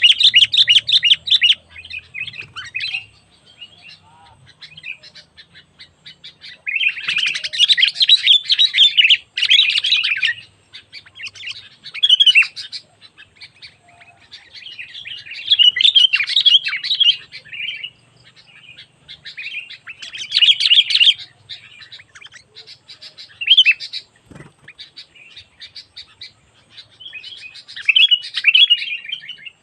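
Sooty-headed bulbul (kutilang) singing in bouts of rapid, chattering chirps, each one to three seconds long, with short pauses between. A single brief knock sounds late on.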